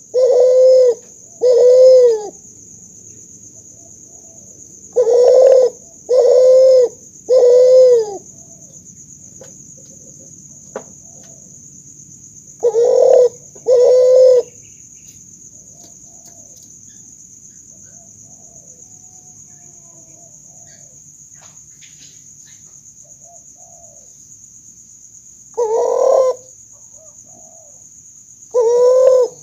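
Kuter, a hybrid of spotted dove and Barbary dove, cooing. Its drawn-out coos last just under a second each and come in runs of two or three, with pauses of several seconds between runs.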